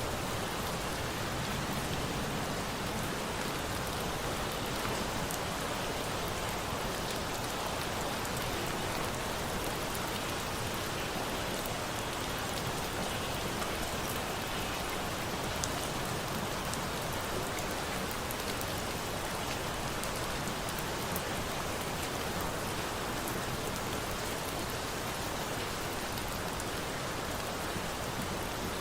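Steady rain falling, mixed with a bonfire that gives a few sharp pops.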